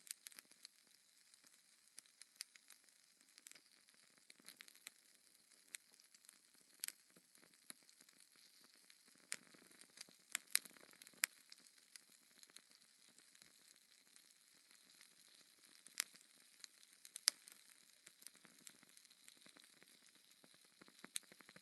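Logs burning in a fireplace: irregular sharp crackles and pops over a faint steady hiss.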